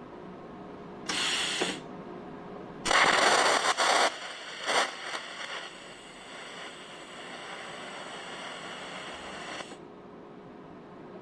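TIG welder tacking a steel patch panel: a short burst of crackling hiss about a second in and a louder, longer one around three seconds in, then a steady hiss with faint high whines that cuts off suddenly near the end.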